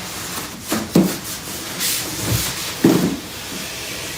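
Styrofoam packing and a cardboard box being handled: rubbing and squeaking with four short knocks, two close together about a second in and two more between two and three seconds in.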